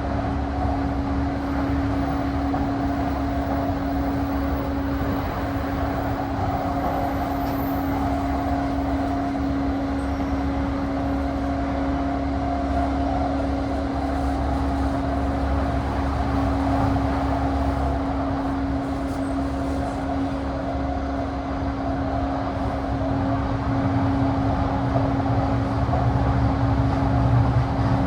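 Interior running sound of a JR East E235-1000 series electric train, recorded in the motor car fitted with a Mitsubishi full-SiC MOSFET VVVF drive. The train runs at a steady speed: a constant rumble of wheels on rail under a steady hum, getting a little louder and heavier near the end.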